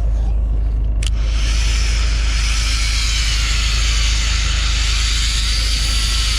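Fishing boat under way: a steady low engine rumble under loud rushing water and wind hiss, which swells up sharply after a click about a second in.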